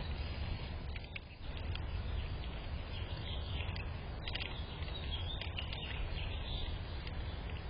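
Steady low outdoor rumble with short, high bird chirps scattered through it, most of them in the middle of the stretch.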